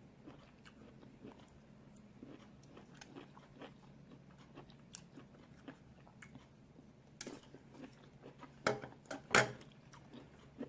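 Snow crab legs being eaten: quiet chewing and small clicks of crab shell handled and bitten, with two sharp, louder cracks near the end.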